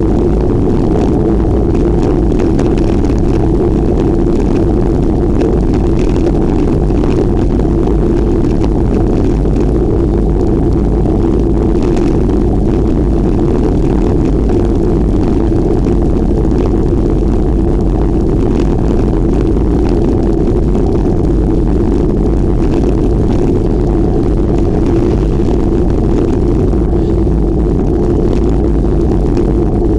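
Steady rush of wind over the microphone while riding a bicycle, loud and unbroken, with a low drone underneath.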